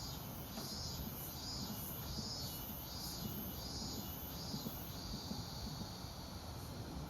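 Insect song, pulsing high and shrill about once every 0.7 s and then running on without a break near the end, over a low outdoor rumble.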